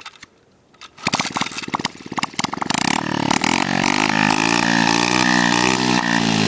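70cc dirt bike engine catching about a second in, firing unevenly at first, then running steadily from about three seconds with its pitch wavering a little.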